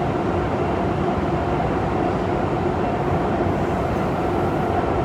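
Interior noise of a Nanjing Metro Line 7 subway car: the train's steady running rumble with a constant hum.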